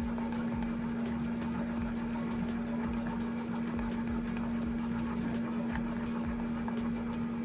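Air fryer running with a steady, even hum from its fan, with soft irregular low knocks beneath it.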